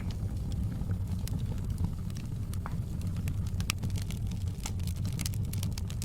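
Wood fire crackling in a fireplace: a steady low rumble of the flames with irregular sharp pops and snaps, coming thicker in the second half.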